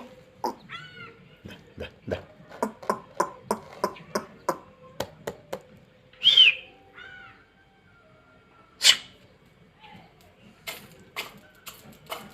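A run of sharp taps or clicks, about three a second, mixed with a few short arching chirps from a bird, including one loud falling chirp about halfway through. A single loud click follows, then a few more taps near the end.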